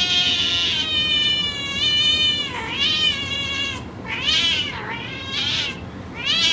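A domestic cat meowing: one long, wavering meow, then four shorter meows that rise and fall in pitch.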